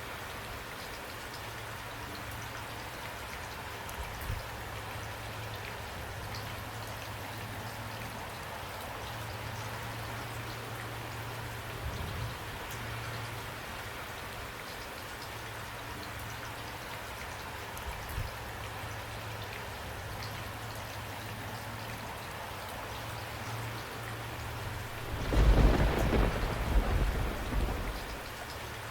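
Steady rainfall, with a roll of thunder near the end that rumbles for about three seconds.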